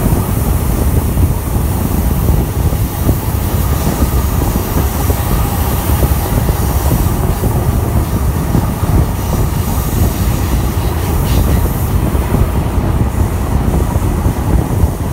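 Passenger train running at speed around a curve: a steady, loud roar of steel wheels on rail, heard through an open window of one of its cars.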